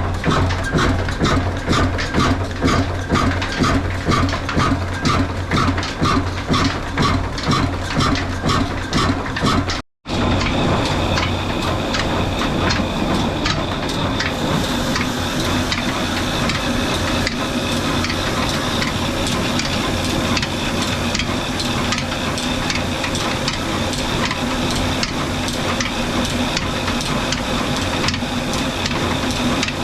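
Old Ruston-type stationary diesel engine driving a flour mill, running with an even, slow beat of about two a second. After a cut about 10 s in, the running turns steadier and denser, with a faint steady whine.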